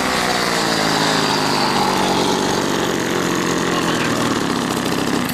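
Single-cylinder lawn mower engine on a homemade motor scooter, running loud and steady with no muffler fitted. The sound cuts off suddenly at the end.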